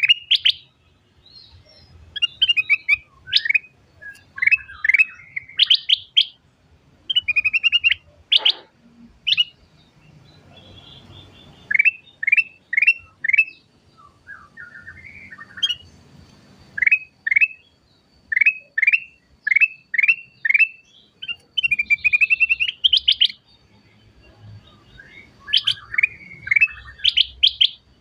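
Ruby-throated bulbul (kutilang emas) singing non-stop. Its song comes in rapid-fire runs of short, sharp, downward-sweeping whistled notes, three to six at a time, broken by brief pauses.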